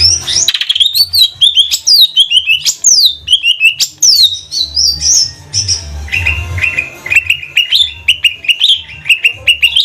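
Cucak ijo (greater green leafbird) singing a fast, varied song of sharp high whistled notes, many sliding down in pitch, with a low rumble coming and going underneath.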